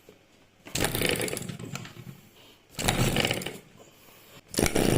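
Small homemade two-stroke engine, built from a refrigerator compressor, running in three short bursts of about a second each, dying away after each one.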